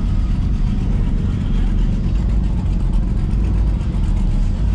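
A car engine running close by, a steady low exhaust note.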